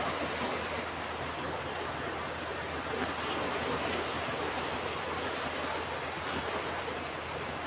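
Ocean surf washing on a beach: a steady rushing of waves that swells slightly now and then, with no single wave breaking out above the rest.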